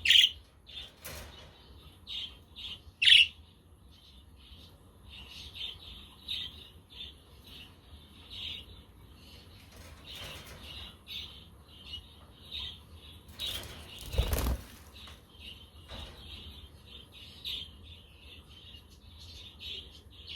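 A flock of budgerigars chirping and chattering continuously, with two louder calls in the first few seconds. About two-thirds of the way through there is a brief rush of noise.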